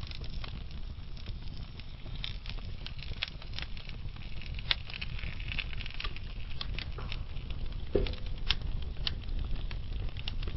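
Wood fire burning in a fireplace: a steady low rumble of flames under frequent sharp crackles and pops from the logs, with one louder pop about eight seconds in.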